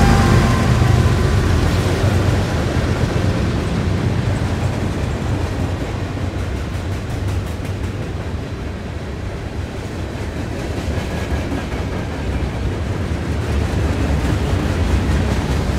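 Train passing close by: a steady low rumble that eases off midway and builds again near the end.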